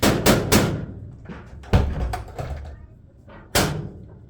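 A series of sharp bangs: three quick ones at the start, a heavier one a little before the middle, and one more near the end.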